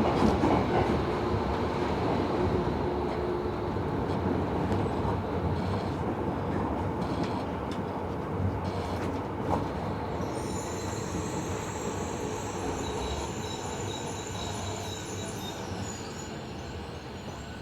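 Interior running noise of a Tobu 70000 series subway train, a steady rumble of wheels on rail that slowly dies down as the train slows for a station. A high-pitched wheel or brake squeal joins about ten seconds in.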